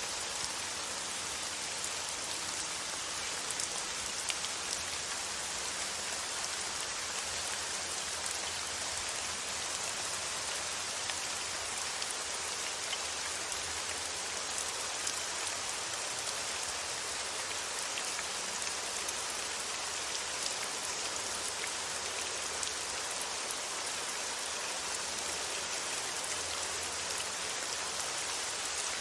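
Steady rainfall, a continuous hiss with many small drops pattering.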